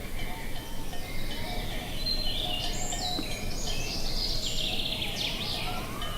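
Birds chirping and singing in quick, gliding phrases, busiest in the middle, over a steady low rumble of wind.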